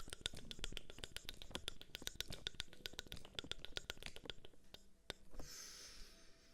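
Rapid light clicking or tapping, about ten clicks a second, that stops about four and a half seconds in, followed by a short soft hiss.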